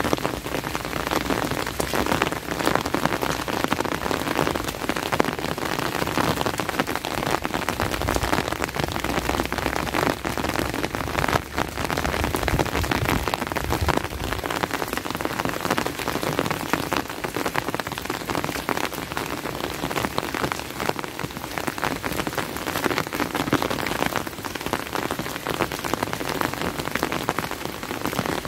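Steady rain falling, a dense continuous patter of drops, with a brief low rumble partway through.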